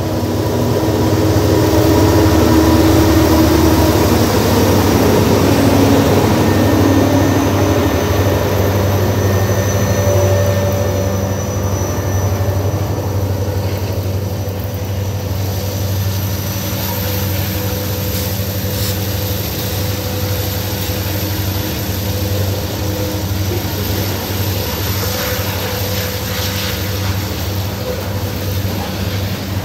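CSX freight train passing close by. Its diesel locomotives run loudest over the first several seconds, then the freight cars roll past with a steady rumble of wheels on rail.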